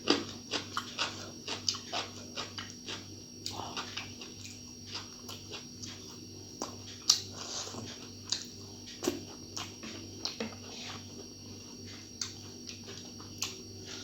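A person eating close to the microphone: chewing with many short wet mouth clicks and smacks, thick at first and sparser later, over a steady low electrical hum.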